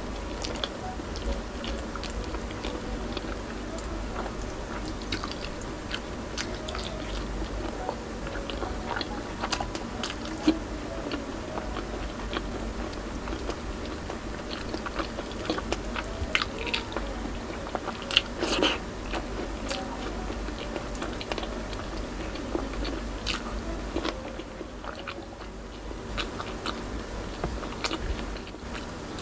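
A person chewing and eating with the hands, close to the microphone: wet mouth smacks and irregular soft clicks, with one sharper click near the middle. A steady low hum runs underneath.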